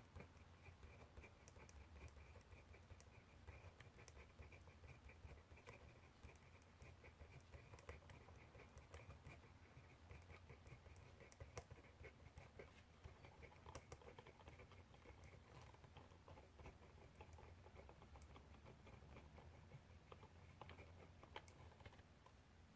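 Faint scratching of handwriting on paper, in quick small strokes with scattered light ticks.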